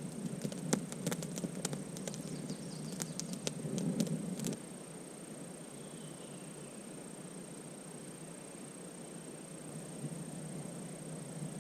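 Campfire crackling, with scattered sharp pops and snaps, for the first four and a half seconds, then cutting off abruptly to a quiet forest background. A steady thin high whine runs throughout.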